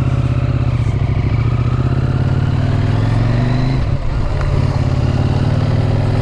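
Motorcycle engine running steadily under way, its pitch rising a little and then dipping briefly about four seconds in before picking up again.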